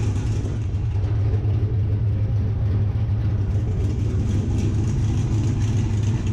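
Truck V8 fitted with a TSP stage 4 camshaft, idling steadily.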